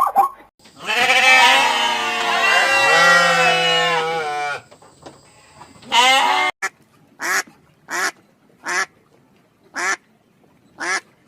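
Domestic waterfowl calling: a flock calls together for about four seconds, then single short calls follow about once a second.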